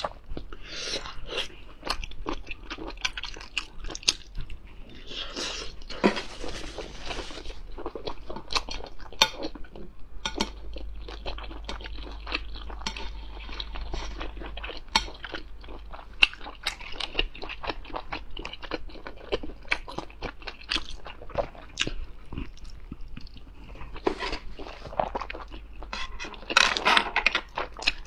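A person chewing cooked sea snail (whelk) meat close to the microphone: a steady run of wet, irregular clicks and crunches.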